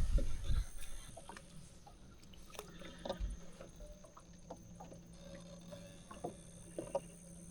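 Faint small clicks and drips around a boat, over a steady low hum that sets in about three seconds in; a loud low rumble on the microphone fades out in the first second.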